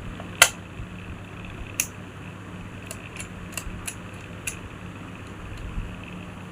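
Sharp clicks and taps from handling the parts of an electric wall fan under repair: a loud one about half a second in, another just under two seconds in, and a quick scatter of lighter ones around three to four and a half seconds. A steady low hum runs underneath.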